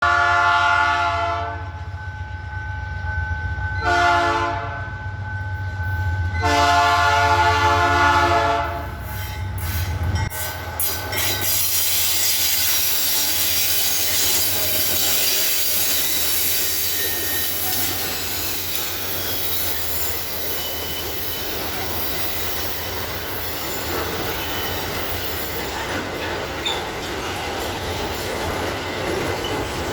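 Freight train led by two GE diesel-electric locomotives sounding the horn three times, the last blast the longest, over the low rumble of the engines; after the locomotives pass, the wagons of the pulp train roll by with steady rumbling wheel noise and clickety-clack.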